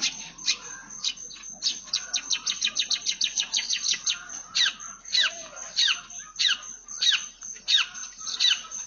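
Long-tailed shrike (cendet) singing its mimicked Eurasian tree sparrow calls. It gives a fast run of chirps, then a string of downslurred notes about every 0.6 s.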